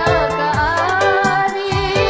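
Female voice singing an ornamented kasidah melody over a steady drum beat and instrumental backing.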